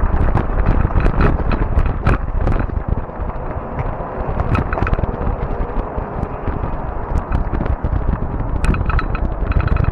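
Fat-tire e-bike riding over a trail: wind rushing on the microphone and tyre rumble, with many short rattles and clicks as the bike goes over bumps.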